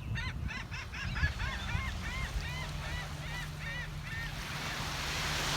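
A flock of seagulls calling, a rapid run of short arched cries about three a second that thins out after about four seconds, as a rush of noise builds near the end.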